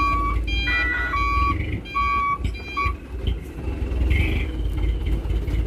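Mitsubishi Canter dump truck's diesel engine running with a steady low rumble. For about the first three seconds a repeating electronic beep in two alternating pitches sounds over it, typical of the truck's reversing alarm.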